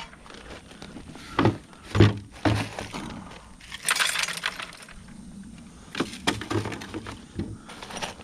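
Rusty scrap hand tools being tossed into a bucket, clanking and clinking one after another at an irregular pace, with a burst of several clanks near the end.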